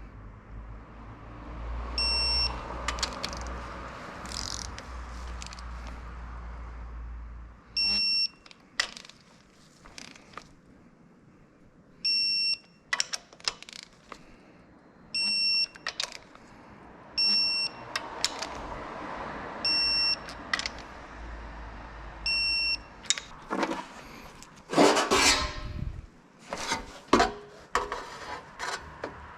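Short electronic beeps, each about half a second, sound seven times a few seconds apart over a low hum. Near the end comes metallic clattering and scraping of tools or parts.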